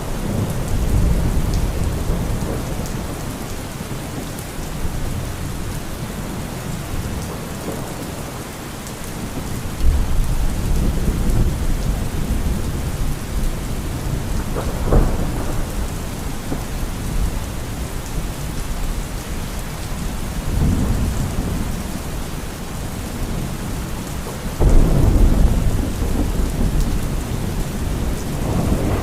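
Thunderstorm: steady rain with rolling thunder, low rumbles swelling about ten seconds in and again near the end, and a sharper crack around the middle.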